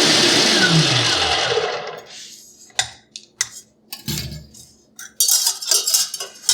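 Stand mixer running at top speed, switched off and whining down in pitch as its motor spins to a stop over about two seconds. A few separate knocks follow, then from about five seconds in a run of clattering and knocking.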